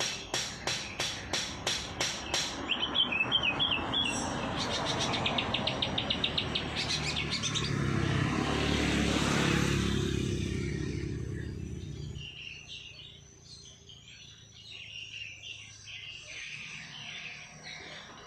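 Small songbirds chirping: a run of loud repeated chirps at about four a second, then a fast high trill. In the middle a broad rumble swells and fades away, after which fainter chirping carries on.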